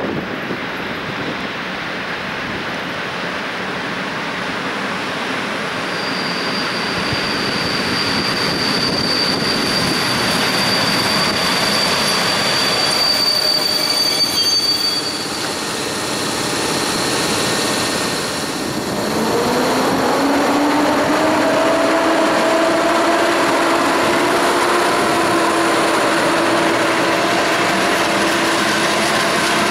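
Passenger train hauled by a Polish EP07 electric locomotive rolling past close by, with a continuous noise of wheels and running gear. A thin high wheel squeal is held from a few seconds in until about halfway. From about two-thirds of the way through, lower squealing tones glide upward and then hold.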